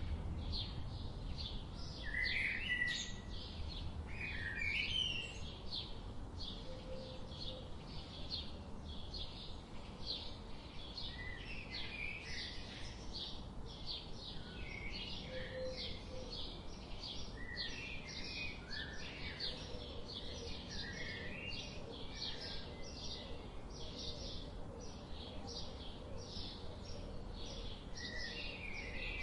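Several small birds chirping, with quick short calls repeating several times a second and now and then a lower gliding phrase, over a steady low background rumble.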